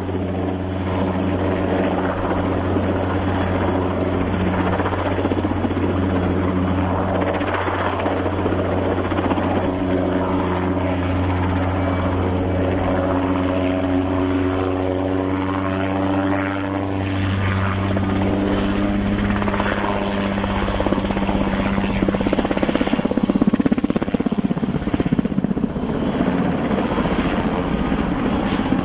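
Helicopter running steadily with its rotor and engine tones. The pitch bends up and down around the middle, and the sound swells to its loudest a little past two-thirds of the way through.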